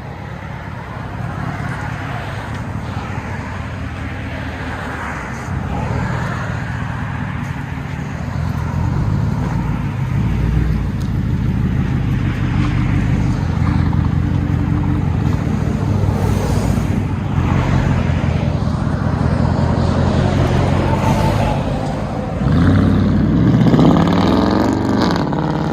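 2010 Ford F-150's 5.4 L Triton V8 with a true dual straight-pipe exhaust, running and growing louder, then revving up and back down near the end.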